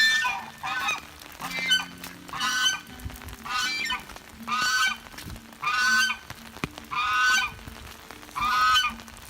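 A goose honking over and over, short loud honks about once a second.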